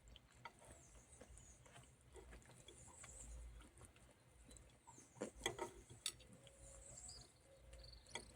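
Near silence: faint background, with a few soft clicks and small knocks about five to six seconds in.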